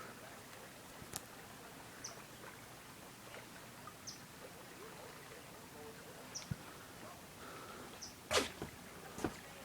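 Faint outdoor ambience: a small bird gives short high chirps every couple of seconds over a steady hiss, with a few sharp knocks, the loudest about eight seconds in.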